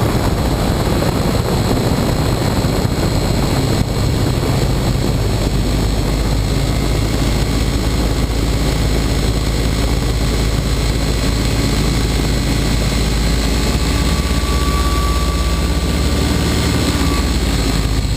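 Challenger ultralight's engine and propeller running steadily. The low engine tones shift slightly past the middle.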